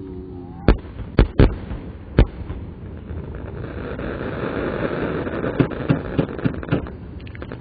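Slowed-down fireworks: four sharp bangs of shells bursting in the first couple of seconds, then a long crackling of many small pops as the bursts glitter out, dying away near the end.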